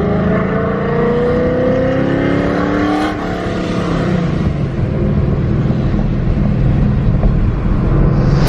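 Boosted Coyote 5.0 V8 in a Mustang accelerating hard, its pitch climbing for about three seconds and then dropping at a gear shift, after which it runs on loudly under load with road noise.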